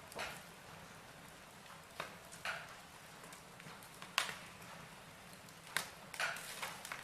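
Burning logs in a fireplace crackling, with irregular sharp pops over a faint steady hiss. The loudest crack comes about four seconds in, and a cluster of pops follows near the end.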